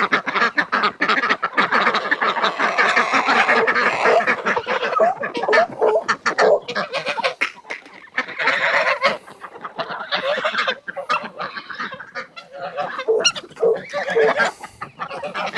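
A flock of poultry clamouring at feeding time: many overlapping calls and a thick scatter of short clicks, with no pause.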